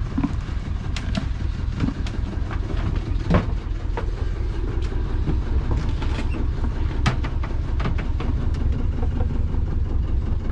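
Steady low engine rumble with a fast throbbing pulse, with scattered sharp clicks and knocks over it, strongest about three seconds in and again about seven seconds in.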